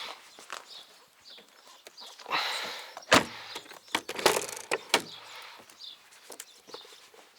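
A trigger spray bottle of bead-maker detail spray gives a few short hissing spritzes while the car is dried by hand, with a few sharp clicks and knocks.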